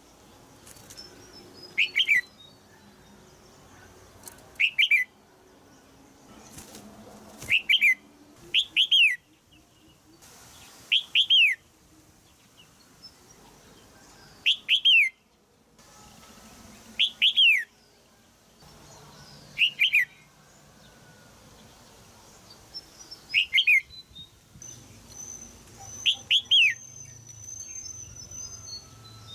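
Female red-whiskered bulbul giving sharp, short calls, each a quick downward sweep, often in pairs, repeated every two to three seconds.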